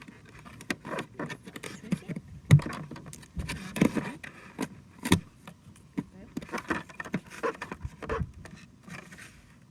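Hands fiddling with plastic toy pieces and packaging: an irregular run of clicks, taps and rustles, with a few sharper knocks.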